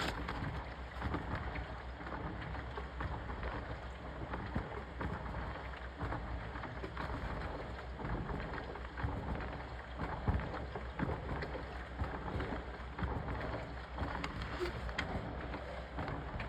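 Washing machine running, with a steady rumble and irregular swishing of water.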